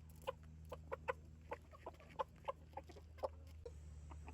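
Chickens clucking in short, quick notes, several a second, while they are being fed.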